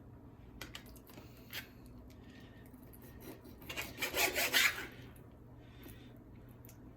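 Kitchen knife cutting raw chicken breast into cubes on a cutting board. Light taps of the blade on the board, then a louder run of sawing, scraping strokes about four seconds in.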